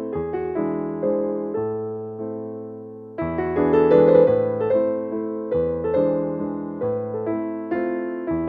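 Background music: a gentle piano playing a slow melody over chords, with notes that strike and fade, swelling with a new chord about three seconds in.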